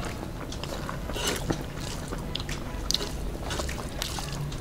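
People eating rice and curry by hand: chewing with wet mouth clicks and lip-smacks, and fingers squishing rice on the plates.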